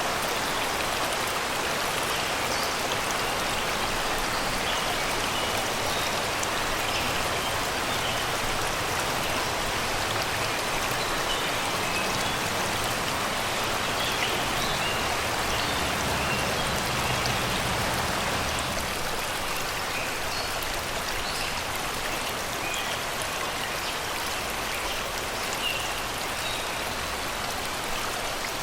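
Shallow river water rushing and babbling steadily over rocks and stones, with forest birds singing short chirps throughout.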